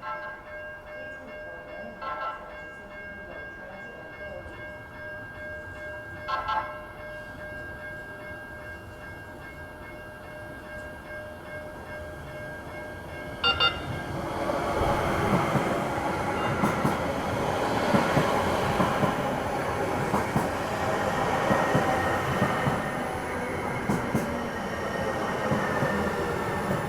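Link light rail train at the platform: a steady hum with three short warning sounds in the first half, then about halfway through a train rolls by louder, its wheels rumbling and clicking over the rails.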